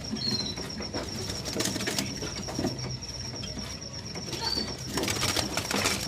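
Caged birds fluttering and knocking about their cages, with two short high chirps and a steady, fast-pulsing high trill in the background.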